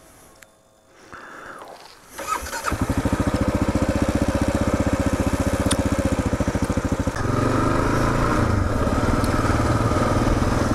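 Kawasaki KLR650's single-cylinder engine starting about two seconds in, then idling with an even, rapid pulse. About seven seconds in the engine note rises and becomes steadier and louder.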